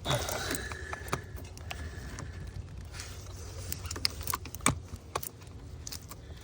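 Scattered sharp clicks and taps of fingers and a tool working a stiff plastic quick-connect clip on an EVAP line, over a steady low hum.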